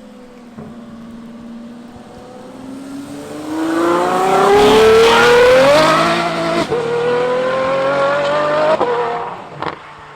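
Ferrari F12's V12 engine with an iPE exhaust accelerating hard, its pitch climbing steadily through a gear, dropping at an upshift about two-thirds of the way in, then climbing again before the driver backs off near the end.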